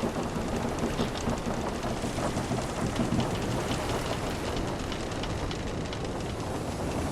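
Wooden sailing ship ambience: a steady wash of sea noise with scattered small creaks and ticks of ship timbers.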